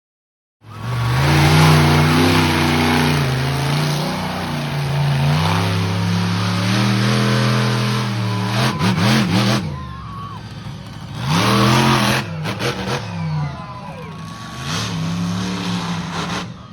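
Monster truck engine revving hard, its pitch climbing and falling for several seconds, then dropping back and surging twice more in shorter bursts.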